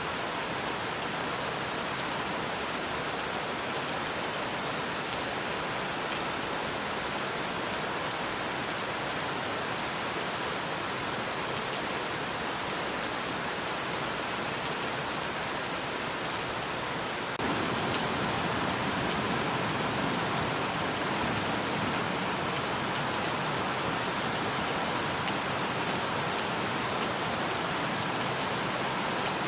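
Steady rain falling, an even dense hiss of countless drops. A little past halfway it steps up abruptly to slightly louder and fuller.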